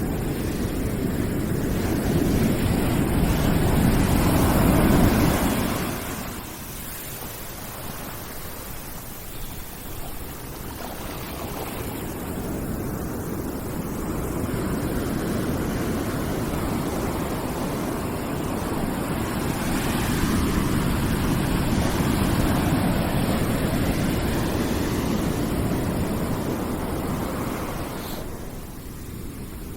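Ocean surf: a rushing wash of waves that swells to a peak about five seconds in, drops away, then builds into a second, longer swell that fades near the end.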